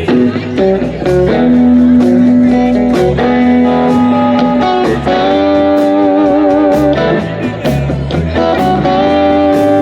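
Live blues-rock band playing an instrumental passage. An electric guitar holds long bent notes with vibrato over bass and a steady drum beat with cymbal hits.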